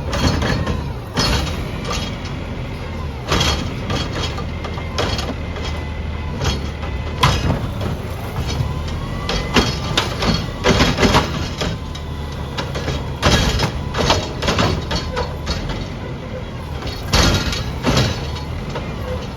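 Recycling garbage truck's engine running steadily, with repeated irregular clanks and bangs from the recycling being lifted, tipped and loaded.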